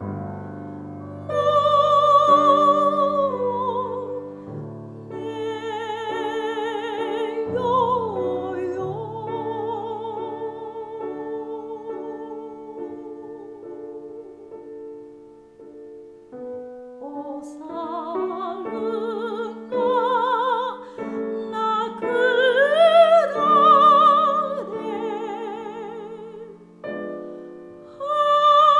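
Soprano singing a Japanese art song in a classical style, with wide vibrato on long held notes, accompanied by piano. A phrase climbs to a high peak near the end.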